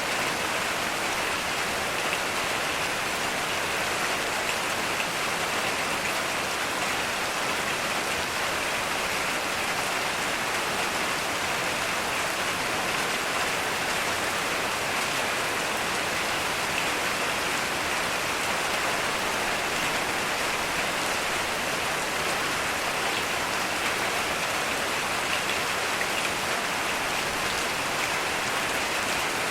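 Heavy rain falling steadily, an even hiss of rain without pause or thunder.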